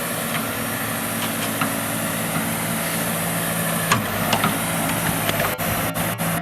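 Diesel engine of a heavy earthmoving machine running at a steady speed, with a few sharp knocks about four seconds in.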